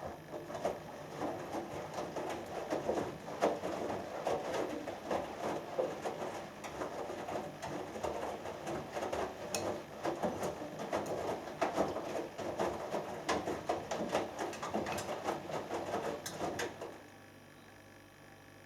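Hoover Dynamic Next DXA610IW3 washing machine in its main wash: the drum turns, tumbling the wet load with water sloshing and clothes splashing and flopping, then stops about 17 seconds in for its pause between turns.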